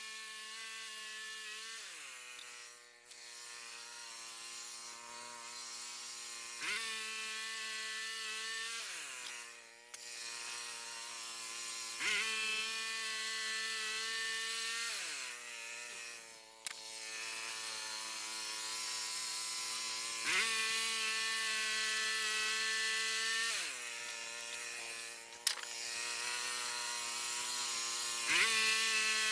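A Frontier OS27 band sawmill's engine running steadily. About four times its speed sags and then climbs sharply back up.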